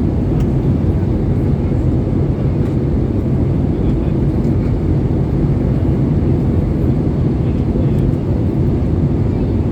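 Steady rumble of engine and airflow noise inside the cabin of an Airbus A320-214 airliner in flight, heavy in the low end and unchanging throughout.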